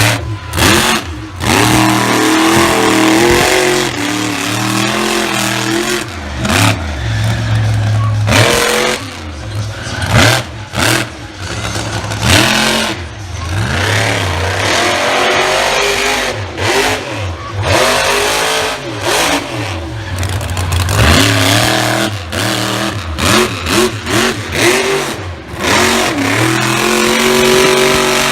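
Monster truck engine revving hard again and again, its pitch climbing and falling, with many short drops in level between the bursts of throttle.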